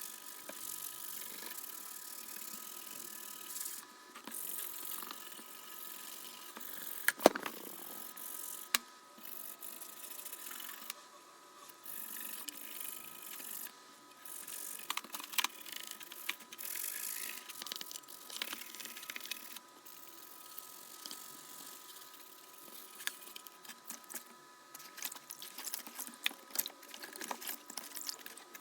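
Hand-washing a GTX 1080 Ti graphics card's circuit board in hot soapy water to clean off urine corrosion: stop-start scrubbing and rubbing noises with small clicks and knocks of the card against the basin.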